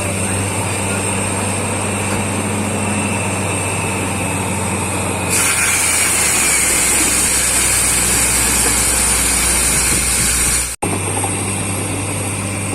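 Borewell drilling rig running steadily with a loud engine hum. About five seconds in it grows louder, with a strong hiss over a deeper hum. Near the end it cuts out for an instant and goes back to the earlier steady running.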